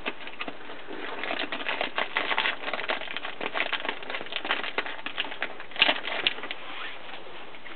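Rummaging through a cupboard's contents: a rapid, irregular run of small clicks, rattles and rustling, with a few louder knocks about six seconds in.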